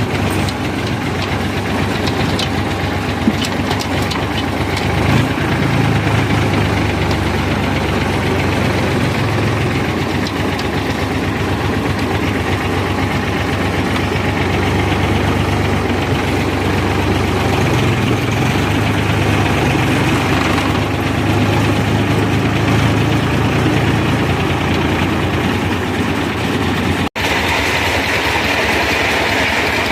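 Sonalika tractor's diesel engine running steadily with an even, rapid knock of its firing strokes. The sound drops out for an instant near the end.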